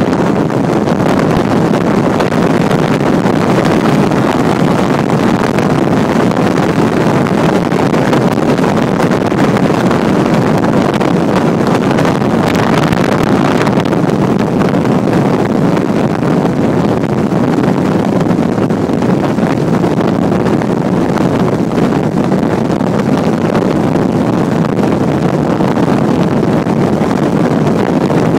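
A motorboat under way, a steady loud rush of engine, water and wind with wind buffeting the microphone.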